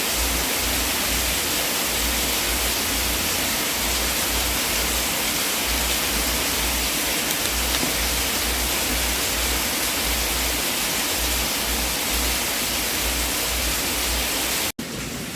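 Fireplace fire burning with a steady, dense hiss over an uneven low rumble and only a few faint crackles. It cuts out abruptly near the end and comes back quieter, like an edit in a looped sleep soundtrack.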